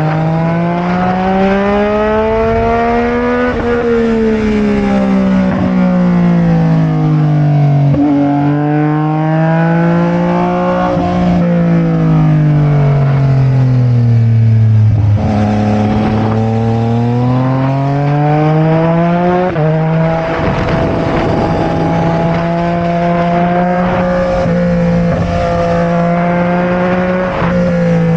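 Sport motorcycle engine heard from on board, the revs rising and falling slowly over several seconds at a time, with sudden jumps in pitch at gear changes. For the last several seconds it holds a steady engine speed, with wind rush behind it.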